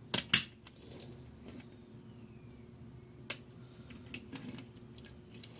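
Sharp clicks and light taps from a Hot Wheels die-cast toy truck being handled: two loud clicks just after the start, another about three seconds in, and faint scattered ticks between.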